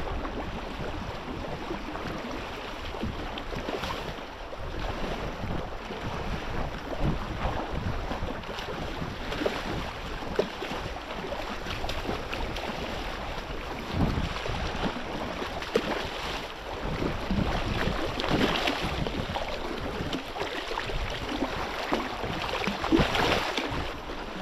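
Water splashing and lapping in a choppy rip, with wind noise on the microphone; irregular short splashes break through the steady rush, most strongly about 14, 18 and 23 seconds in.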